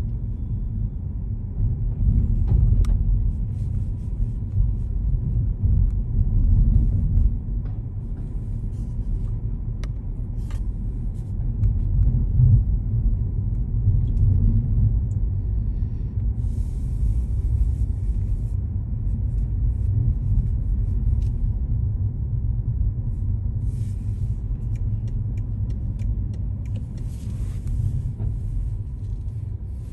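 Low, steady rumble of a car on the move: engine and road noise, with two short hisses, one midway and one near the end.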